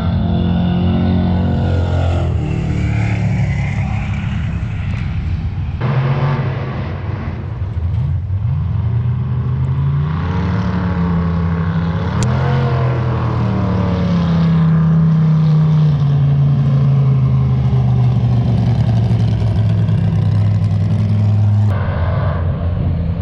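Drag cars' engines running loud with a deep rumble, the pitch rising and falling as they rev. The sound changes abruptly about six seconds in and again near the end.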